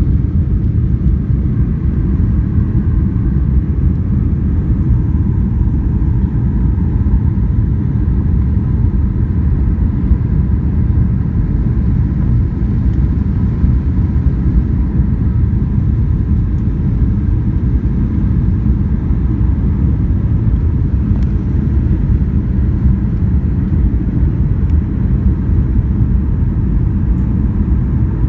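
Steady, loud low rumble of an airliner in flight, heard inside the cabin: engine and airflow noise with a faint steady whine above it.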